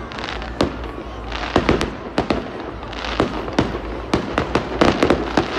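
Aerial fireworks bursting: an irregular run of sharp bangs and crackles, coming thicker in the second half.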